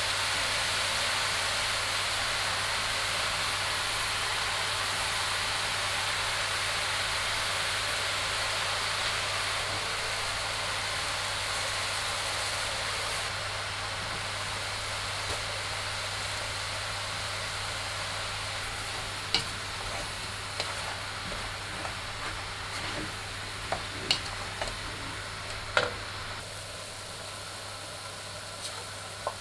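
Diced vegetables sizzling steadily in a large pot on a gas hob, the sizzle slowly growing fainter. A few light knocks in the second half.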